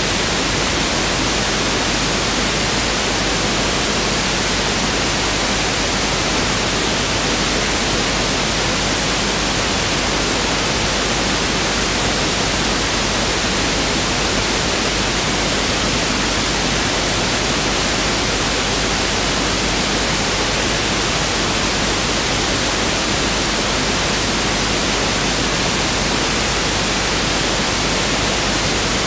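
Pink noise (1/f noise) test signal: a steady, even hiss that does not change.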